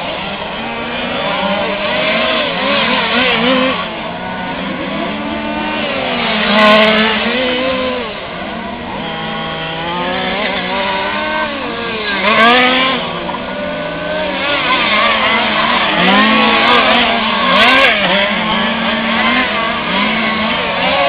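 Several 1/5-scale RC cars' small two-stroke petrol engines racing together, each note rising and falling as they throttle up and brake; cars pass loudly close by about 7, 12 and 18 seconds in.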